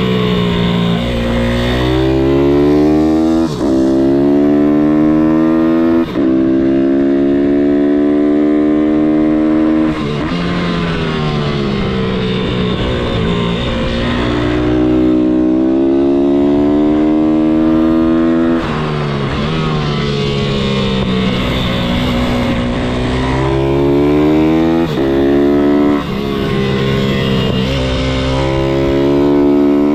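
MRF 160-R SM pitbike's single-cylinder four-stroke engine accelerating hard and shifting up through the gears. Its pitch rises in each gear and drops briefly at each shift, then falls as the bike slows for corners, over and over.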